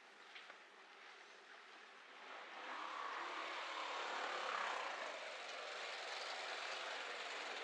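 A motor vehicle passes close by in street traffic. Its noise swells about two seconds in, peaks near the middle, then eases to a steady traffic hiss.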